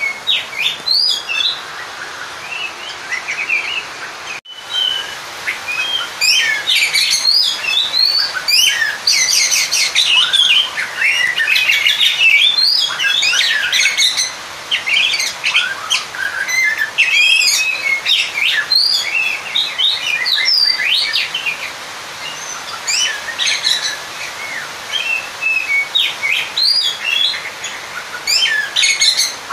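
Oriental magpie-robin (kacer) singing a fast, varied song of quick chirps and whistled notes: the challenging song a male uses toward a rival. A brief break about four and a half seconds in, then the song turns denser.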